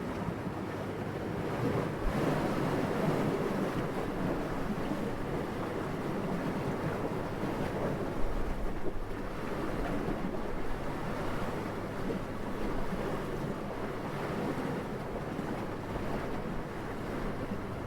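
Steady wind blowing, a soft rushing that swells and eases in slow gusts.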